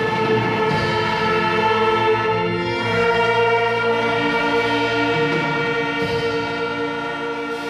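Church orchestra playing a hymn instrumentally in slow, held chords that change every second or two, easing down in loudness near the end.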